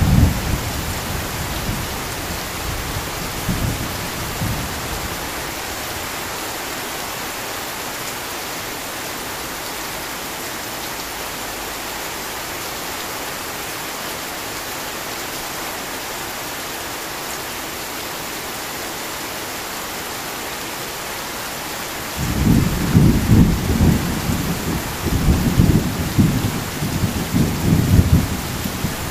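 Heavy rain falling steadily as an even hiss, with rolling thunder. A low rumble dies away over the first few seconds, and a new roll of thunder starts suddenly about three quarters of the way through and rumbles on in waves to the end.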